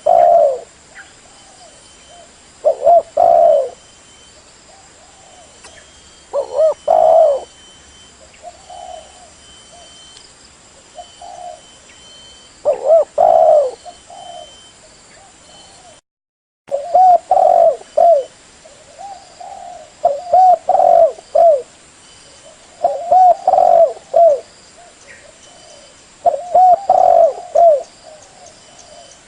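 Spotted doves cooing: loud phrases of low, repeated coos every few seconds, with fainter coos between them. About halfway through the sound cuts out for half a second.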